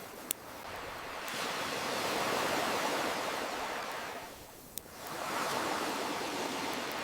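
Ocean waves washing in and drawing back: one surge of surf swells to a peak about two seconds in, falls to a lull past the middle, and another builds after it. A single sharp campfire crackle sounds near the start and another in the lull.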